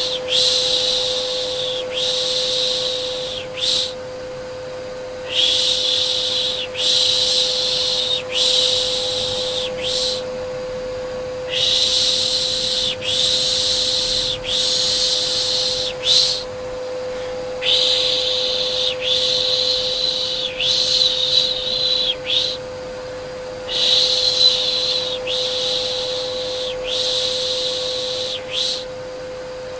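Rhythmic soothing 'shh' shushing, pulses about a second long in runs of four or five with short pauses between runs, over the steady hum of a vacuum cleaner.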